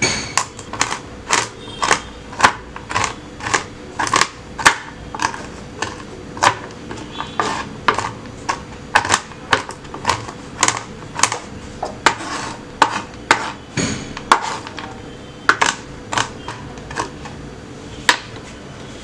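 Knife chopping almonds, cashews and walnuts on a board: a long run of sharp chops, about two a second at an uneven pace.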